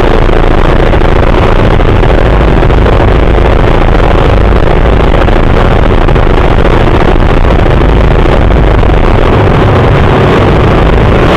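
Pit bike engines running hard in a speedway race: a loud, steady, dense engine noise with a heavy low rumble.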